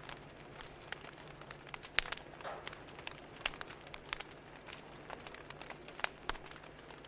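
Fire crackling, with irregular sharp pops and snaps over a soft hiss and a steady low hum underneath.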